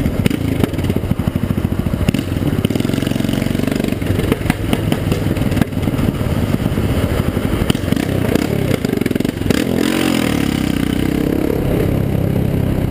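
Yamaha XT660R's single-cylinder four-stroke engine running loud on the move, with one of its exhaust mufflers opened up. The engine note rises and falls from about ten seconds in.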